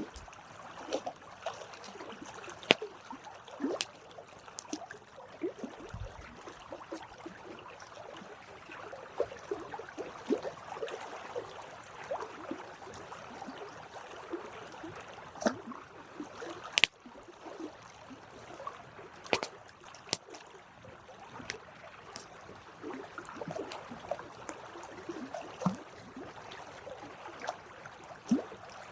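Campfire of burning wood crackling, with irregular sharp pops and snaps over a steady hiss.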